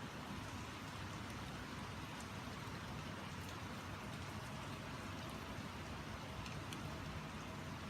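Steady rain hissing evenly, with a few faint separate drop ticks now and then.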